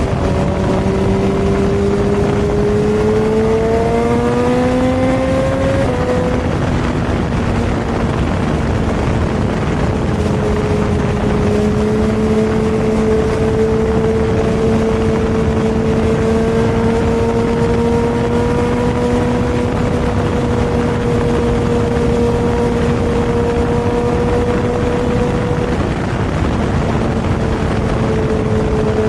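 Superbike engine heard from onboard at highway speed, with wind and road rush. The engine note climbs steadily for the first few seconds, dips slightly about six seconds in, then holds a steady cruising drone with only a slow rise and fall.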